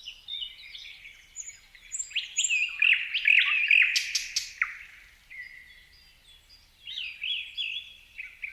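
Birds chirping and calling in quick, overlapping short notes at several pitches. The calls are busiest a few seconds in, thin out, then pick up again near the end.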